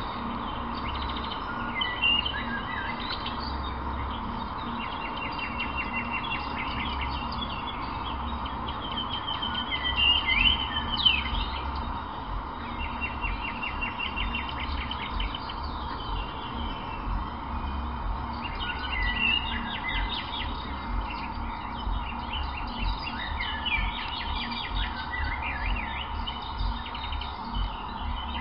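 Small birds chirping and trilling again and again over a low, steady rumble.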